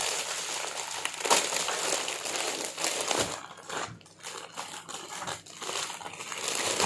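Thin plastic crinkling and rustling as it is handled, continuous for about three seconds and then in separate short crackles with quiet gaps between.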